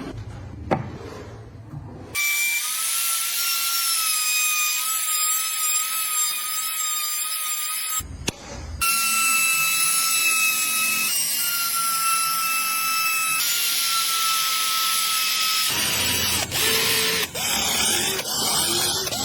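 Small electric power tool running on wood with a steady high-pitched whine, cut off abruptly for a moment near the middle. Near the end it gives way to a rougher, noisier scraping with scattered clicks.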